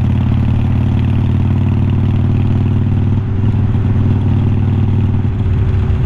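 2020 Harley-Davidson Iron 1200's air-cooled V-twin running steadily at a constant low speed through unbranded glasspack-style slip-on mufflers, its deep exhaust note holding an even pitch with small shifts about three and five seconds in.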